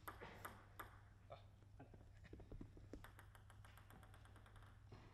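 Near silence: hall room tone with a low hum and faint scattered clicks, which come closer together for about a second and a half midway.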